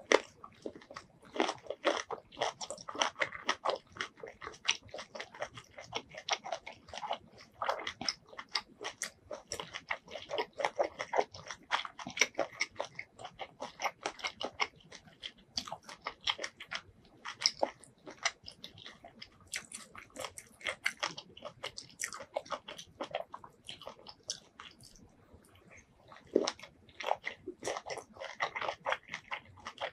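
Close-miked chewing of squid in a spicy Thai squid salad: wet, crunchy bites and mouth clicks coming thick and fast, with a couple of brief lulls.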